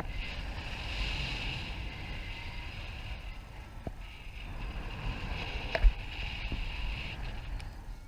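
Wind rushing and buffeting over the microphone in flight, with a deep rumble and a hiss that swells and fades twice. A single sharp knock comes just before six seconds in.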